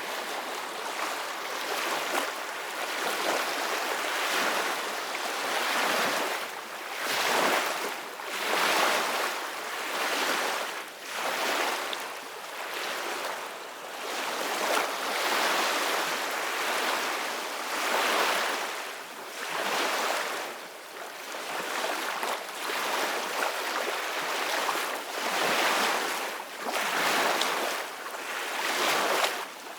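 Ocean waves breaking and washing on a beach, a steady surf hiss that swells and fades every two to three seconds.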